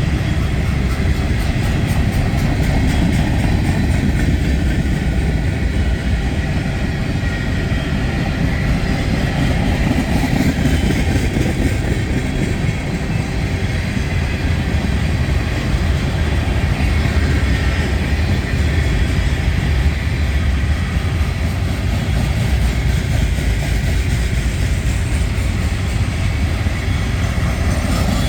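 Freight train rolling past: a steady rumble with the clatter of wheels over the rail joints.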